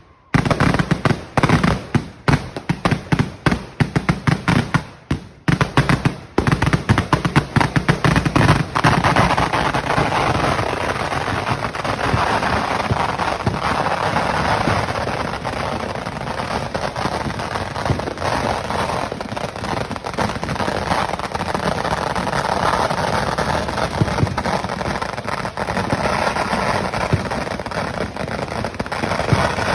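Fireworks display going off. For about eight seconds there are rapid, loud firecracker bangs in quick succession. They then merge into a dense, unbroken crackle of explosions.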